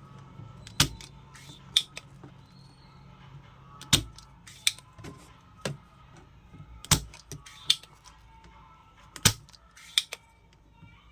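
Sharp clicks and taps of desoldering work at uneven intervals, about ten in all, as a TDA7265 amplifier IC is desoldered from a circuit board.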